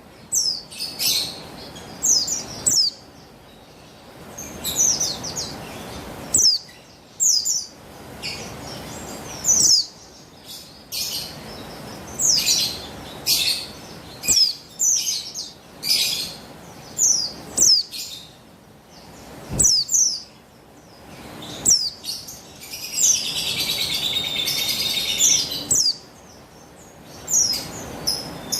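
Female buxtoni white-eye (pleci) giving repeated short, high chirps that slide down in pitch, one or two every second or so, with a few seconds of unbroken twittering about three-quarters of the way through. It is a female's call used to stir male white-eyes into singing.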